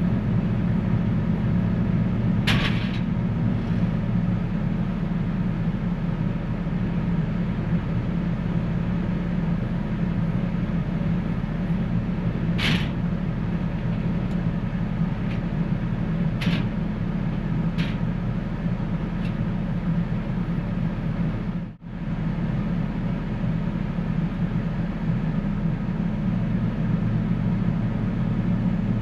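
A farm loader's engine running steadily under way with pallet forks on, with a few sharp metallic clanks. The drone briefly cuts out about three quarters of the way through, then carries on.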